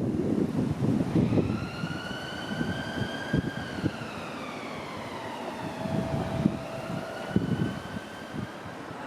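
Electric train's traction motors whining, the pitch rising slightly and then falling, with a new whine starting near the end. Under it runs the rumble of wheels with scattered knocks on the rails.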